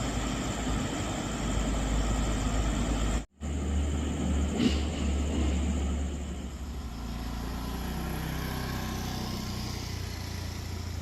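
A motor vehicle engine running steadily with a low hum. The sound drops out briefly about three seconds in, and there is a short knock a little later.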